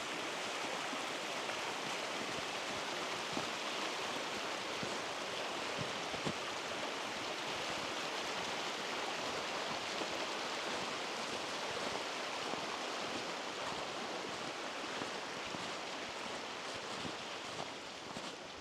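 Steady rush of flowing water from a stream, easing off a little near the end.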